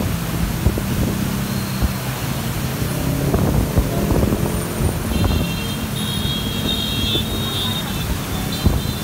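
Heavy rain pouring down on the street and pavement, a steady rushing hiss, with motorbike engines humming as they ride through the downpour. A high tone sounds for a couple of seconds about five seconds in.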